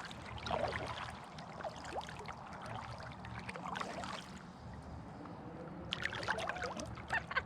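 Kayak paddle strokes: water splashing and dripping off the paddle blades, quieter for a moment past the middle and picking up again near the end.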